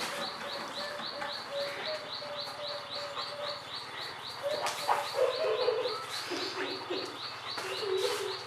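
Birds calling: a short high chirp repeated evenly, about four times a second, with lower drawn-out calls beneath it and a faint low steady hum.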